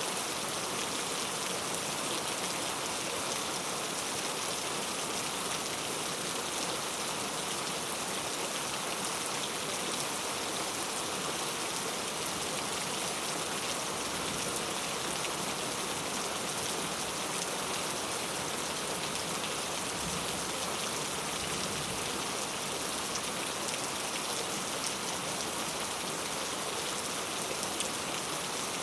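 Heavy rain falling steadily on city streets: a dense, even hiss of drops hitting pavement.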